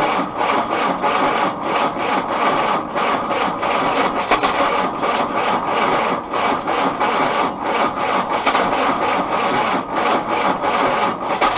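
Willys L134 Go Devil four-cylinder engine being started, turning over roughly with an uneven rasping beat of a few pulses a second. It cuts off at the very end.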